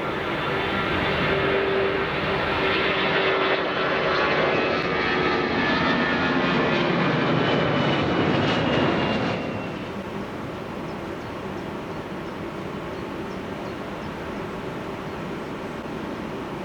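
Airbus A320 jet engines at take-off power, a loud rumble with a faint whine as the jet climbs out. About nine seconds in it cuts off abruptly to a quieter, steady hiss.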